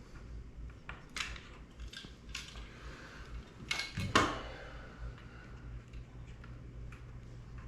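Scattered small clicks and taps of hard drone parts and tools being handled, with one sharp click about four seconds in.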